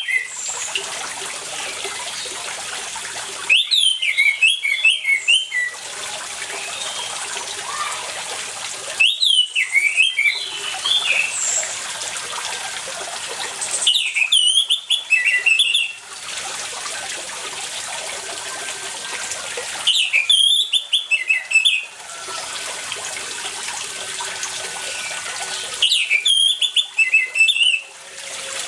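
An orange-headed thrush (anis merah) sings five bursts of rapid, pitch-sliding notes, each about two seconds long and coming roughly every six seconds, over steady running water.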